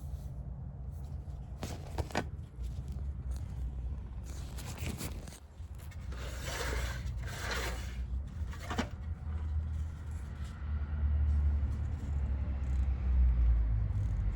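Scraping strokes, as of a paintbrush or palette knife dragged over canvas, a handful of times in the first nine seconds, over a steady low rumble.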